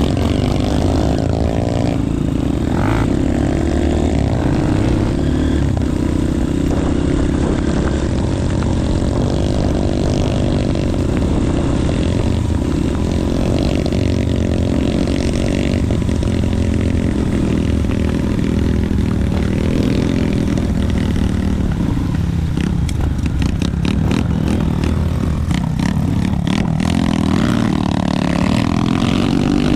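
Motorcycle engine running as the bike is ridden, its pitch rising and falling with the throttle, with a run of clicks and knocks about three-quarters of the way through.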